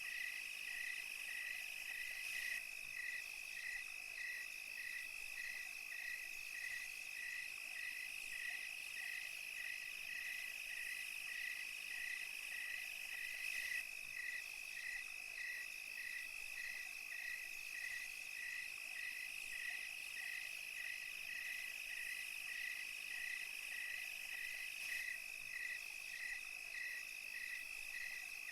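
Night chorus of crickets and other insects: a steady high trill with a chirp repeating about twice a second over it.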